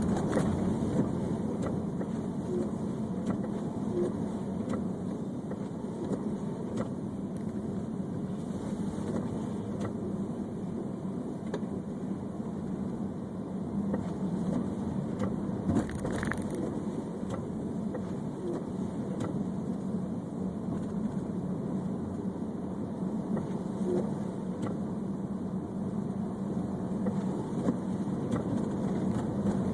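Steady road and engine noise heard from inside a car's cabin while driving on snowy roads, with occasional faint ticks.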